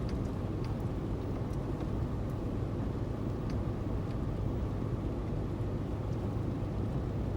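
A car driving at a steady pace: a constant low rumble of engine and road noise, with a few faint light ticks.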